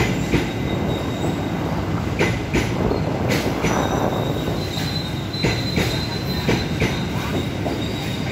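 Passenger train coaches passing close by at speed: a steady rumble of wheels on rail, with sharp clacks mostly in pairs as the wheels cross rail joints. A faint, high, steady wheel squeal comes in about halfway through.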